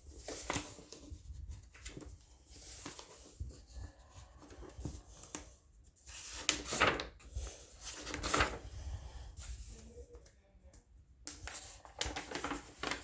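Paper pages of a coloring book being turned and handled, a string of soft swishes and rustles with a few louder page flips in the middle.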